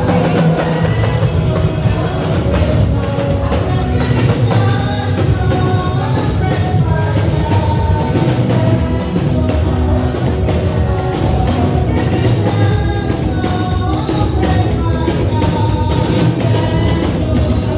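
Church praise band playing an upbeat song: singing over a drum kit and bass.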